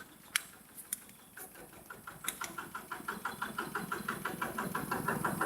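Tractor engine running with an even chugging beat of about eight pulses a second, growing steadily louder as it comes closer. A few sharp cracks sound in the first second.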